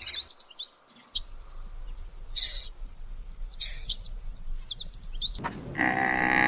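Small birds chirping in quick, high, repeated notes, with a brief break about a second in. Near the end a long, drawn-out animal call begins and holds for about two seconds.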